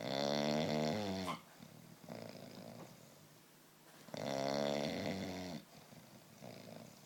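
English bulldog snoring in its sleep: two loud, drawn-out snores about four seconds apart, each followed by a quieter breath out.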